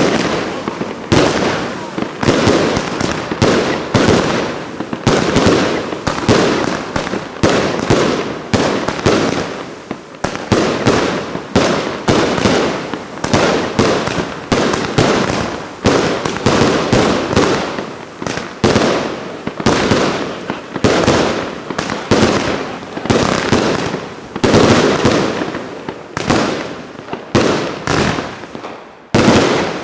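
Royal Fireworks 'Passion Flower' firework cake firing shot after shot, about one bang a second, each one dying away before the next. The last shot comes near the end.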